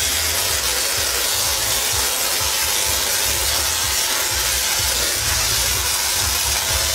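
Tesla coil arcs discharging: a loud, continuous crackling hiss of electric sparks, with an uneven low pulsing beneath.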